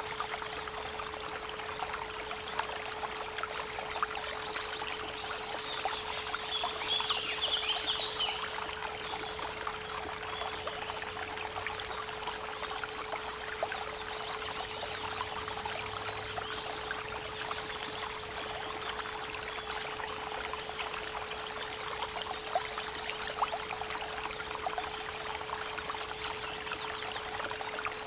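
Creek water running steadily, with a constant 432 Hz pure tone held underneath. Birds sing in short scattered phrases over it, the loudest about seven seconds in.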